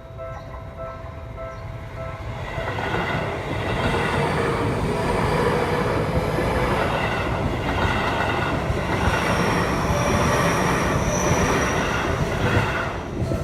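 Seibu Shinjuku Line commuter train passing over a level crossing: the rumble and wheel noise build from about two seconds in and stay loud, with a high whine partway through. A crossing warning bell rings in repeated dings at the start.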